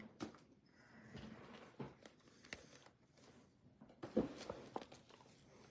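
Faint handling of trading cards and their pack wrappers: scattered short crinkles and clicks, busiest about four seconds in.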